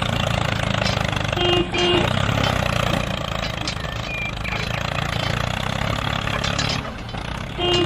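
Small engine of a mini tractor running steadily, with a short pitched sound about a second and a half in and again near the end.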